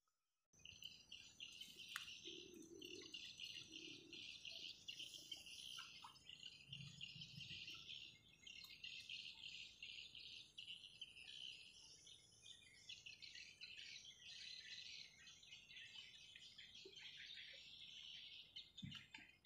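Faint chorus of many small birds chirping, short high calls overlapping without a break.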